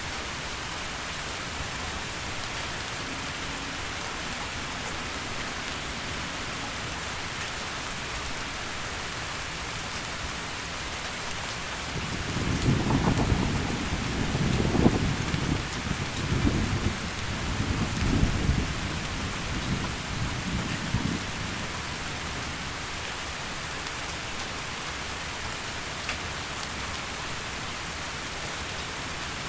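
Steady heavy rain. A long peal of thunder rolls in about twelve seconds in, rumbles in several surges for around nine seconds, then fades back under the rain.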